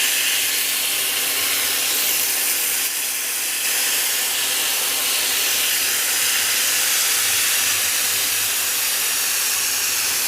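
Marinated chicken legs sizzling steadily on a hot grill pan greased with butter and olive oil.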